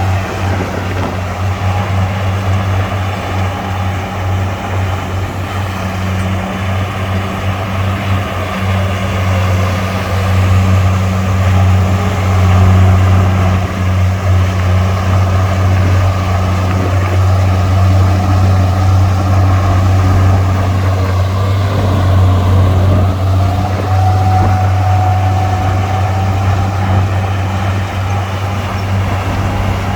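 Heavy diesel engine of earthmoving equipment running steadily, with a constant deep hum and a higher tone that wavers slowly up and down.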